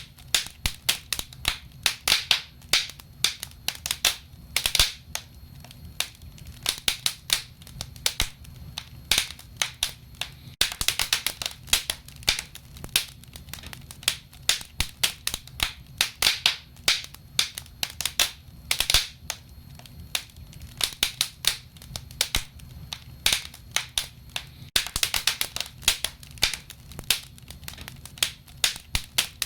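Burning wood crackling and popping in a wood fire: irregular sharp snaps, coming in denser flurries now and then, over a faint low steady hum.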